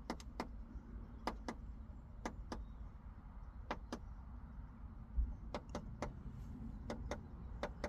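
White wagtail pecking at a car's tinted side window, attacking its own reflection as a territorial rival: sharp irregular taps of beak on glass, many in quick pairs. A low thump about five seconds in.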